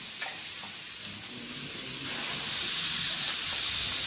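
Raw chicken pieces sizzling on hot fried masala in a kadai: a steady frying hiss that grows louder about two seconds in.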